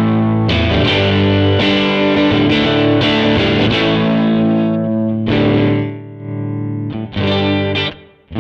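Electric guitar, a Fender Stratocaster played through a Nux MG300 amp modeller with a distorted amp sound. Several chords are strummed and left to ring, with short breaks between them.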